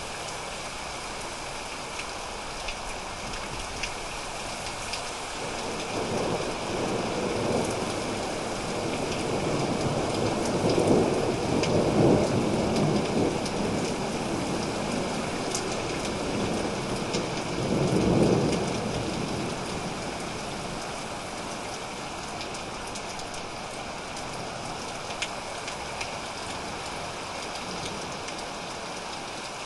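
Steady rain falling, with scattered drops ticking, and a long roll of thunder that builds about five seconds in, peaks twice and dies away before the last third.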